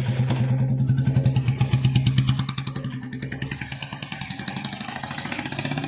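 Royal Enfield Bullet 350's single-cylinder engine running through an aftermarket exhaust, a rapid, even thumping. It is louder for the first two and a half seconds, then eases off slightly.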